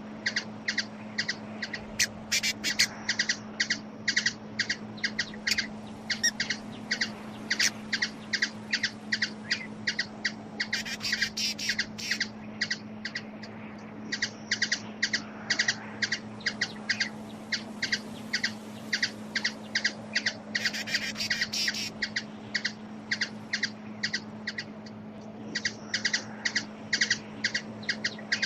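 Hummingbird giving a long series of sharp, high chip calls, about three or four a second, quickening into denser runs twice along the way.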